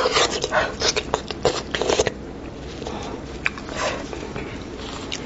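Close-miked eating sounds: wet chewing, smacking and tearing of meat from a cooked sheep's head. There is a quick run of crackly clicks in the first two seconds, then softer, scattered clicks.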